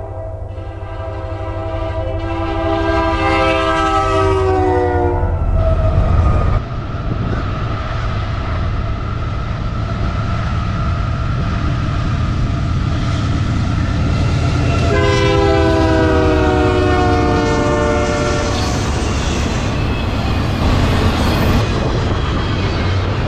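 Freight diesel locomotive air horn blowing a long several-note chord as the train approaches, its pitch dropping as it passes. Then a second CP Rail freight led by AC4400CWM locomotives runs past with a steady low rumble and another long horn blast, followed by double-stack container cars clattering by on the rails.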